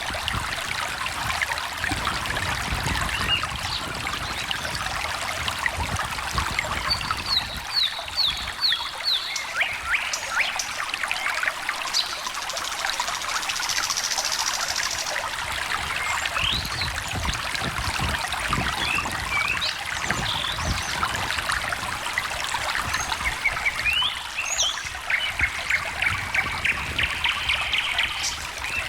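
A small stream trickling steadily, with birds chirping and singing short trills over the water.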